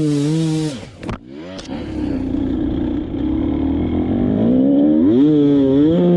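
Dirt bike engine held at high revs with the throttle worked up and down. About a second in the revs drop off sharply. The engine then runs low and rough before revving back up near the end.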